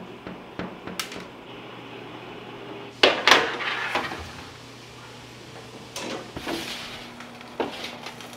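Kitchen handling noises: knocks and clatter of utensils and containers, the loudest a sharp knock about three seconds in followed by a second of clatter, with smaller clatters later, over a steady low hum from kitchen equipment.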